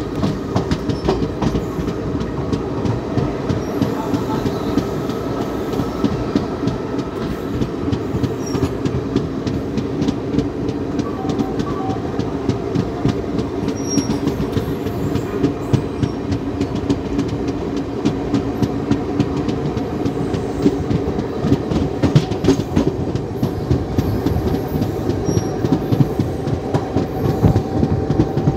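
LHB passenger coaches of the Nilgiri Express pulling out of a station: a steady rumble of the wheels on the rails with a stream of clicks over the rail joints and points.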